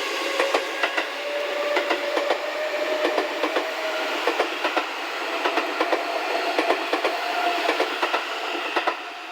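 Seibu 6000-series electric train accelerating away from a station. Its wheels clack over rail joints in quick groups as the cars roll by, over a motor whine that slowly rises in pitch. The clacking stops near the end.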